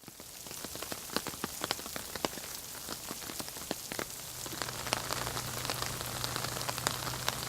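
Rain falling and dripping on hard surfaces: an even patter with many scattered sharp drop ticks. A low steady hum comes in about four seconds in.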